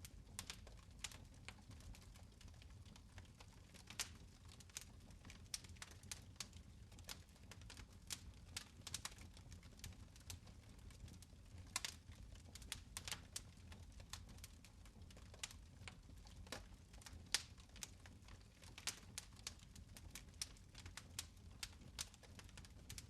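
Fireplace fire crackling: irregular small pops and snaps, several a second, over a faint low steady rumble.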